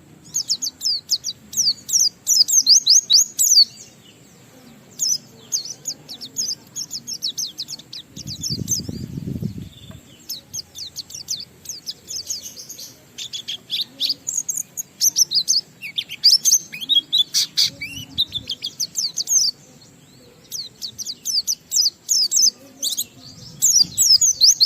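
A pleci (white-eye) singing a long, fast, chattering song of high chirps and trills in runs of a few seconds with short pauses: the continuous 'ngalas' song that keepers play to set other pleci singing. A brief low rumble comes about eight seconds in.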